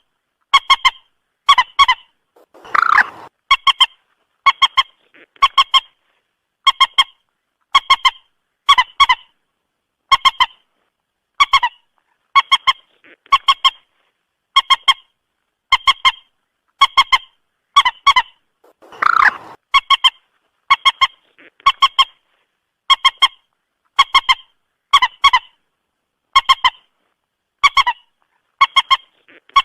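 Moorhen calls played back as a trapping lure: short, sharp, honking notes, each a quick double or triple, repeated about once every second. Twice, about 16 seconds apart, a longer, rougher call breaks in.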